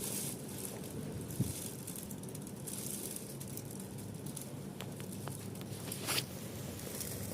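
Wood fire burning with a steady low rush, a few small crackles about five seconds in and a sharper pop about six seconds in.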